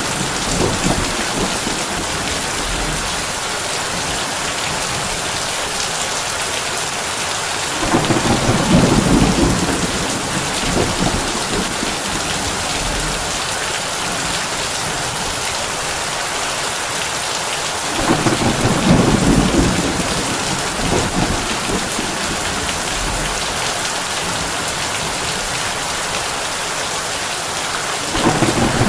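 Heavy rain falling steadily on a tin roof, a constant hiss, with three low rolls of thunder about ten seconds apart.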